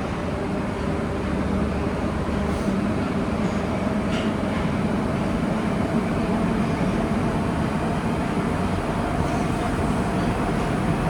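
Nagoya Municipal Subway 2000 series train running through the tunnel, heard from inside the car: a steady rumble of wheels on rail with a low, even hum from the drive.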